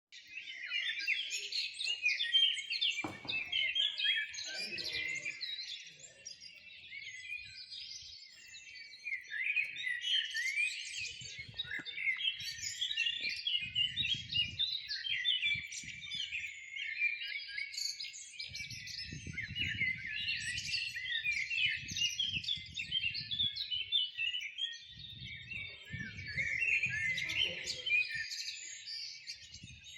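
Many small birds chirping at once: a dense, continuous chorus of short, high chirps, with now and then a brief low rumble underneath.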